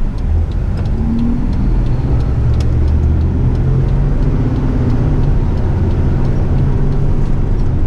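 Eight-wheeler twin-steer truck's diesel engine running steadily under way, a constant low drone mixed with road noise.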